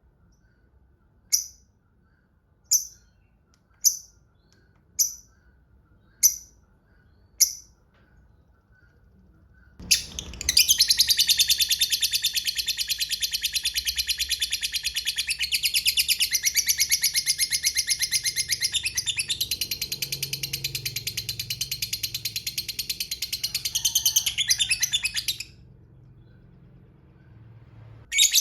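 Lovebird calling: six sharp single chips about a second apart (the clipped 'ngetik' call), then a long, fast chattering trill lasting about fifteen seconds, the 'ngekek panjang' long trill that fanciers prize. One more chip comes at the very end.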